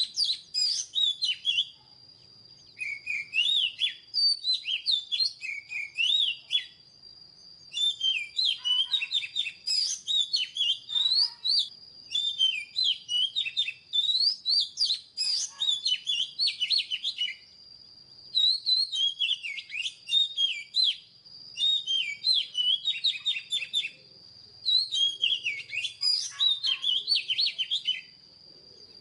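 Oriental magpie-robin singing: phrases of rapid, varied whistles and warbles, about seven runs separated by short pauses. A thin steady high tone runs beneath them.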